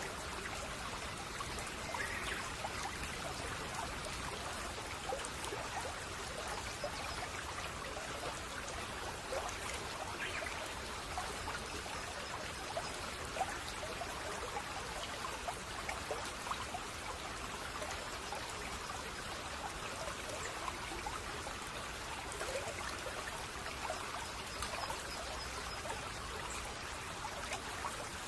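Babbling brook: shallow water trickling and gurgling steadily.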